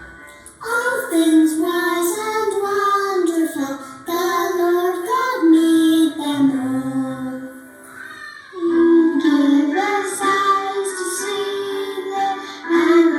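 Children singing a song together in phrases, with short breaths between lines.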